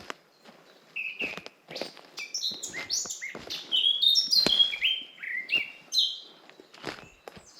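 Songbirds singing: quick chirps and a run of falling whistled notes, busiest and loudest in the middle, with a few soft footsteps on the forest path.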